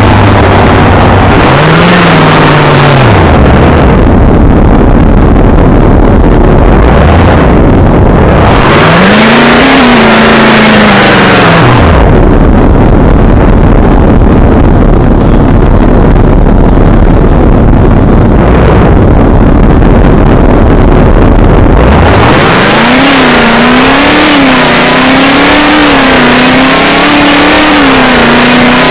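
Chevrolet Camaro engine accelerating hard, its pitch climbing and falling three times: short pulls about 1 s and 9 s in, then a longer one from about 22 s that climbs and holds high with small surges.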